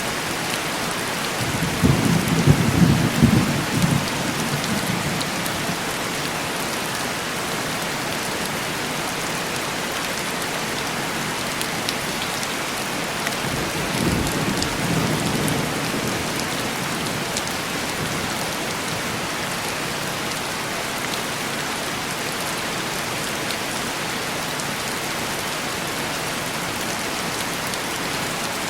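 Steady heavy rain on a window, with two rolls of thunder: a louder, crackling one about two seconds in and a softer one about halfway through.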